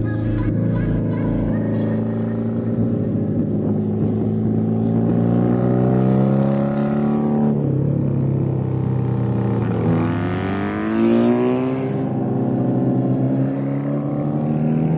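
BMW R100 air-cooled flat-twin motorcycle engine running on the road. Its pitch sinks to a low point about halfway through, then climbs steadily for a few seconds as the bike accelerates, and holds there.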